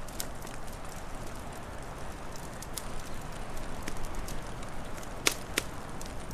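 Wood fire crackling: scattered sharp pops and snaps over a steady hiss, with two louder pops close together about five seconds in.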